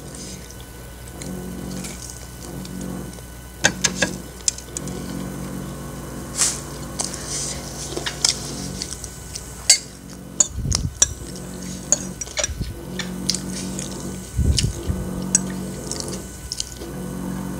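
Close-miked chewing of a bite of crispy fried chicken: scattered crunches and wet mouth clicks, with a couple of dull low thumps around the middle. Near the end a metal fork clinks and scrapes in the plate of noodles.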